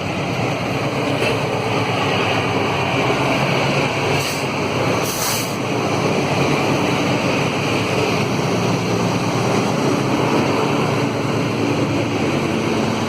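Train passing close by, with a steady loud rumble of wheels on rails and two short high hisses about four and five seconds in.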